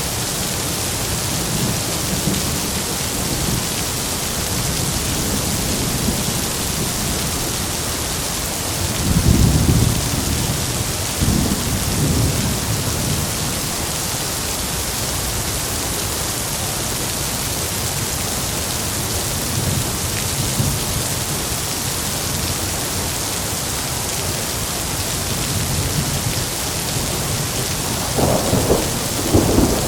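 Heavy rain falling steadily, with rolls of thunder rumbling low about nine and eleven seconds in and a louder, sharper crack of thunder near the end.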